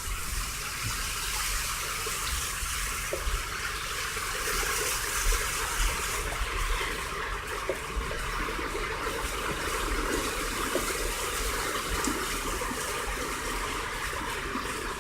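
Steady rush and swish of flood water around a car driving through a flooded road, with a low rumble of the car underneath.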